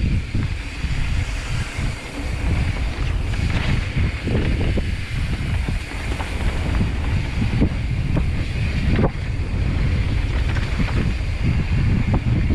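Wind buffeting a GoPro's microphone on a mountain bike ridden down a trail, with a steady low rumble and hiss and scattered knocks and rattles from the bike over rough ground. One sharper knock comes about nine seconds in.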